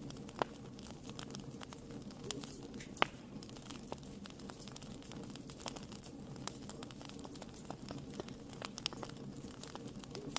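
Fireplace fire crackling: irregular sharp pops and snaps over a steady low rumble, with one louder pop about three seconds in.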